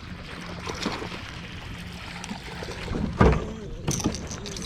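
Water sloshing and handling knocks on a kayak, with one loud thump about three seconds in.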